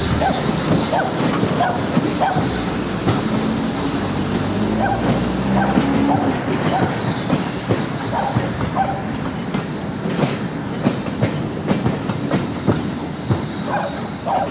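Coaches of a four-coach steam-hauled passenger train passing close below, their wheels clicking irregularly over rail joints and pointwork under a steady rumble, with short high squeaks from the running gear now and then.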